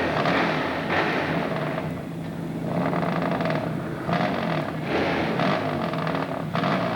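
Hill-climb motorcycle engine revving hard, its pitch rising and dropping several times.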